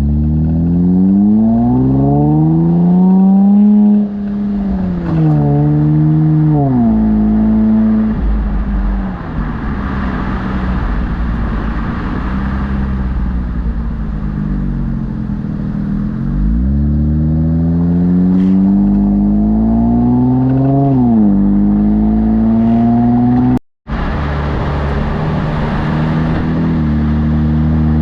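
Infiniti Q50 Red Sport 400's twin-turbo 3.0 V6 through a Motordyne exhaust and AMS lower downpipes, accelerating hard twice. Each time the engine note climbs steeply, then drops in steps at quick upshifts before settling into steady running.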